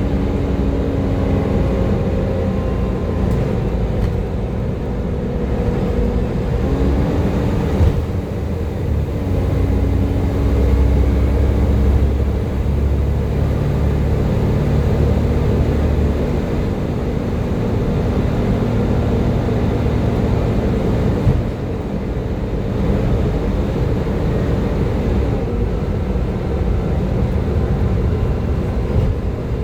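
Volvo B7TL double-decker bus under way: its diesel engine running with a steady whine over a low rumble, the whine stepping up in pitch a few times as the gearbox changes gear. This whine is the vacuum-cleaner-like "Hoover" sound the B7TL is known for.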